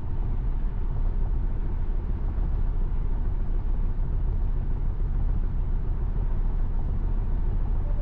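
Steady road and tyre noise inside a Tesla Model Y cabin cruising at highway speed on a wet road, a constant deep rumble with hiss above it.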